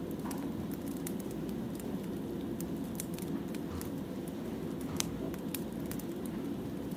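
Wood fire burning, with scattered sharp crackles and pops of firewood over a steady low rush; one pop about five seconds in is the loudest.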